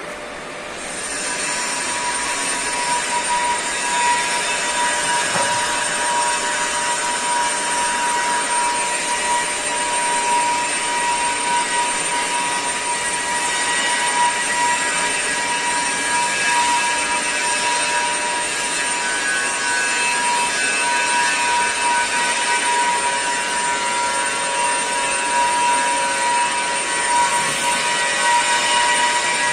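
Argon (TIG) welding arc running steadily: an even hiss with a constant high whine, starting about a second in.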